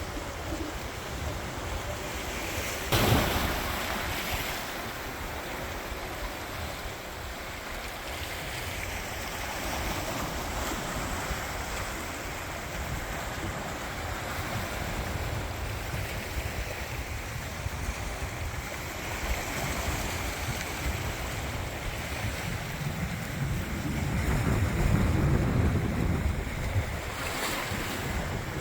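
Sea waves washing onto the shore, a steady rush with a sharp louder surge about three seconds in, and wind buffeting the microphone that rumbles up louder near the end.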